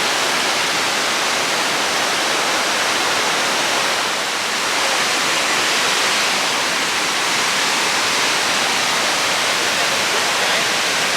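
Steady rushing of the Devil's Cataract at Victoria Falls, an even wash of falling water with no break.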